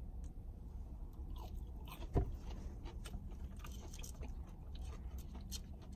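Faint chewing of a crunchy breaded mozzarella stick, with soft mouth clicks and one sharper click about two seconds in.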